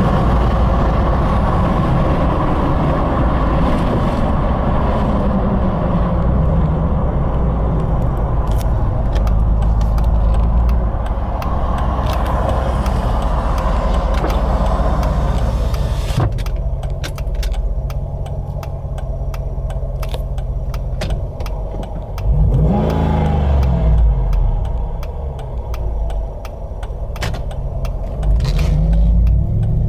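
5.7L VVT Hemi V8 in a 2007 Jeep Wrangler Unlimited, heard from inside the cabin while driving, with engine and road noise. About halfway through the upper hiss drops away and the sound turns to a lower, quieter drone. Later there is a brief sweep up and back down in engine pitch.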